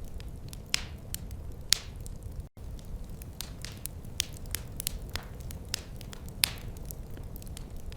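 Wood fire crackling in a fireplace: irregular sharp pops and snaps, a few of them louder, over a low steady rumble. The sound cuts out for an instant about two and a half seconds in.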